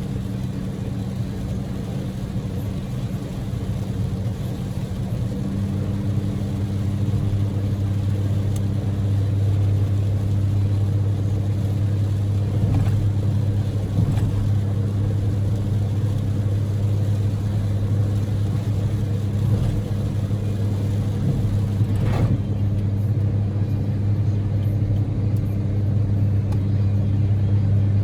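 Cabin sound of a Daihatsu Move L150S on the move: its 660 cc three-cylinder EF-VE engine hums steadily over an even rushing road noise. The hum deepens and grows a little louder about five seconds in. There is a single sharp tick about 22 seconds in.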